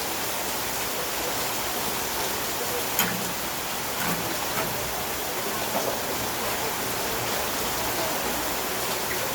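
Heavy rain falling steadily as a constant hiss, with a sharp knock about three seconds in and a lighter one a second later.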